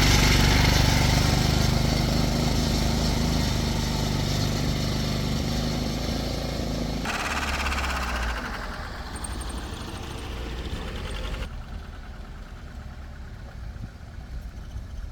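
Motor tricycle engine running steadily and growing fainter. About seven seconds in the sound changes abruptly to a quieter, thinner noise, and it drops again about four seconds later.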